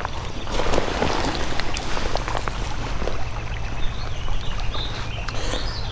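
Shallow creek water trickling and sloshing, with small splashes and clicks, swelling briefly about a second in.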